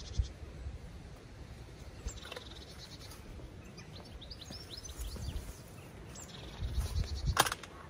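Small garden birds chirping, with a low rumble of wind and movement underneath, and one sharp knock near the end.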